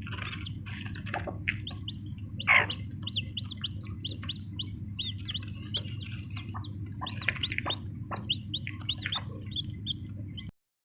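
Newly hatched chicks peeping continuously in short, high chirps, with a few lower clucks from the mother hen. The loudest call comes about two and a half seconds in, and all sound cuts off just before the end.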